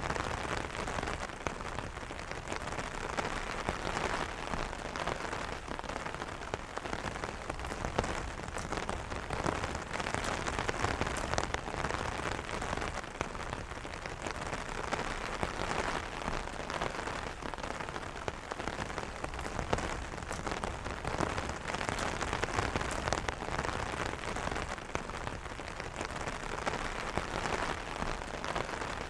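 Steady rain pattering on an umbrella canopy: a dense, even patter of many small drop taps.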